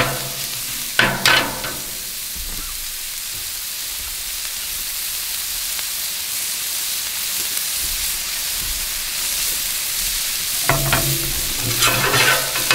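Diced onion, shishito peppers and garlic sizzling steadily in oil on a hot flat-top griddle. A metal spatula scrapes and clacks on the griddle plate about a second in and again near the end.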